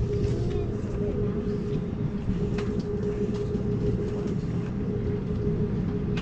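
Amtrak Cascades passenger train rolling along the track, heard from on board: a steady low rumble with a constant hum and a few faint clicks.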